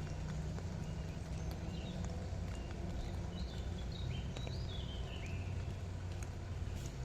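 Outdoor ambience: a steady low rumble with scattered light clicks, and a series of short high chirps in the middle.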